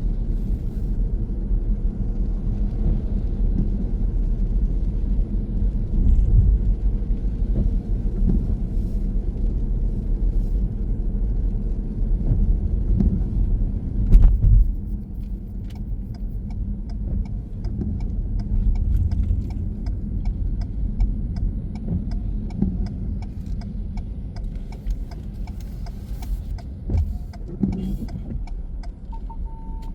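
Car interior road noise, a steady low rumble while driving. About halfway through there is a single knock, after which the car runs quieter and the turn-signal indicator ticks at an even rate.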